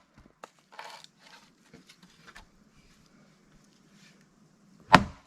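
A single loud axe blow about five seconds in, striking a knotty log being split with a wedge; a few faint knocks and a brief rustle come before it.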